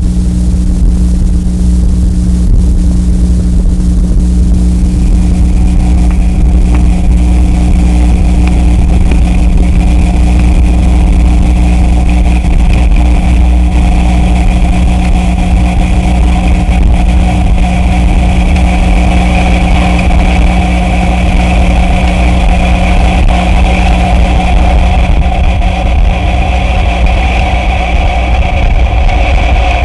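Loud electronic noise music: a dense, steady low rumble under sustained droning tones. Higher droning tones fade in about five seconds in and hold.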